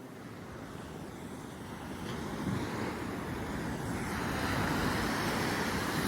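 Heavy ocean surf as a big wave rolls in, the rush of water growing steadily louder, with wind rumbling on the microphone.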